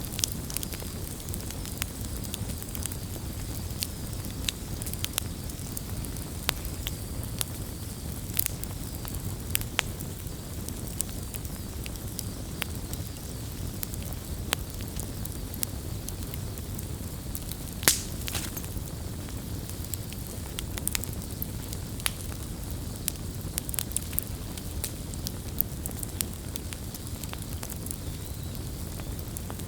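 Campfire crackling, with frequent sharp pops and snaps over a steady low rumble; one pop about eighteen seconds in is louder than the rest.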